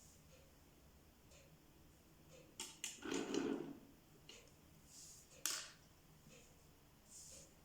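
A few light clicks and knocks, with a short rustling scrape about three seconds in, from small objects being handled.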